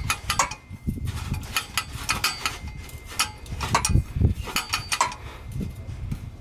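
Irregular metallic clicks, clinks and knocks of an exhaust pipe and hand tools being handled and fitted under a vehicle, with a brief faint metallic ring now and then.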